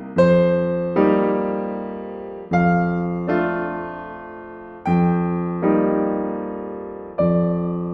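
Slow, gentle solo piano music: chords struck about every one to two seconds, each left to ring and fade before the next.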